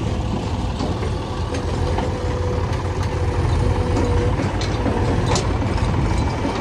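JCB backhoe loader's diesel engine running steadily, with a faint steady whine over the low rumble and a few scattered clicks and knocks.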